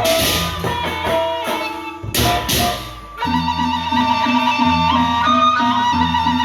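Gendang beleq ensemble music: drums and clashing cymbals at first, breaking off about three seconds in. A held woodwind melody then enters over a regular repeating low pulse.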